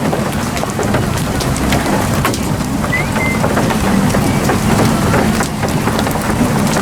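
Hail up to golf-ball size, with smaller stones, pelting a vehicle in a dense rattle of sharp knocks over heavy rain.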